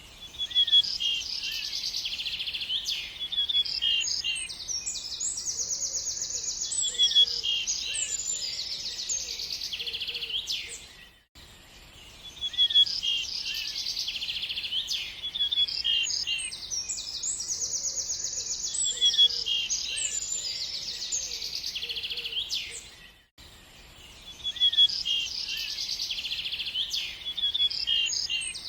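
Birds chirping and trilling in a dense, high-pitched chorus of rapid calls. The same stretch of about eleven seconds plays over again, with a brief drop-out before each repeat, as a looped recording does.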